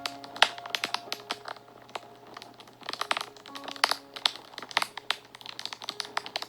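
Fire crackling and popping in many irregular sharp snaps, with a few soft held notes of background music under it.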